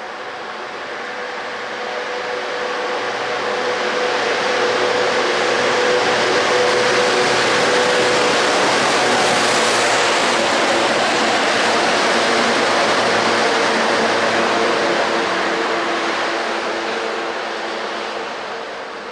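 Class 92 electric locomotive running light, with no wagons behind it, passing by: a broad rushing noise with steady humming tones that swells over the first few seconds, holds, then fades away near the end.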